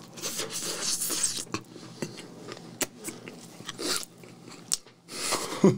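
Close-up biting and chewing of a spicy chicken burger with a soft bun, with irregular crunching and wet mouth clicks.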